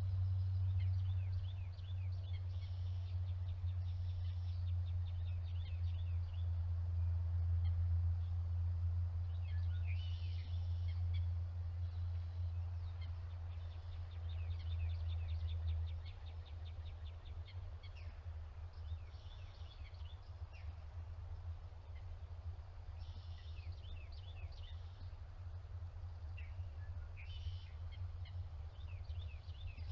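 Bird calls in short clusters of rapid, high chirping notes, about six times, over a steady low rumble that drops in level about halfway through.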